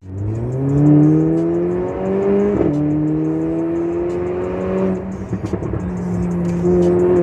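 Mercedes-AMG GLA45's turbocharged four-cylinder with an aftermarket Fi exhaust accelerating hard: the engine note climbs, drops at a gear change about two and a half seconds in, climbs again, then eases off to a steady lower drone with a brief rough flutter.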